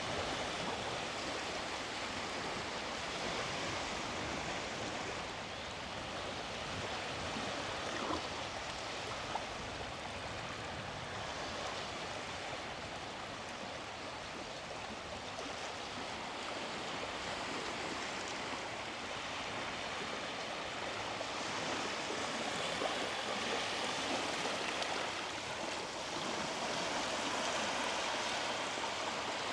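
Small sea waves washing onto a sand beach: a steady hiss of surf that swells and eases slowly.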